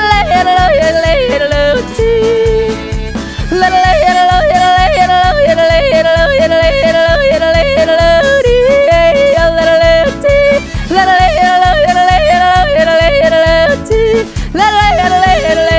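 Rapid yodeling: a single voice flipping quickly between low and high notes, over a bouncy musical accompaniment with a steady bass beat.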